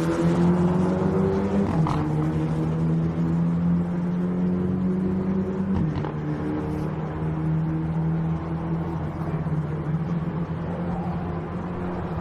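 Racing car engine running hard, its pitch climbing slowly and dropping sharply at upshifts about two and six seconds in.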